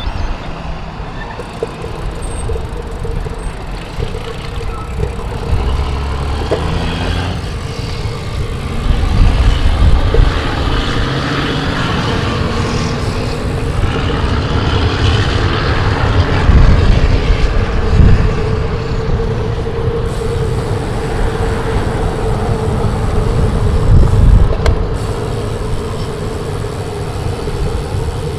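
Wind rumbling on a bike-mounted microphone during a ride in gusty wind, swelling in gusts, with road traffic passing alongside.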